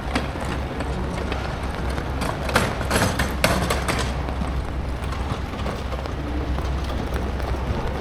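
Rainy city street ambience: a steady low rumble of traffic and street noise, with a cluster of sharp taps and clicks about two and a half to four seconds in.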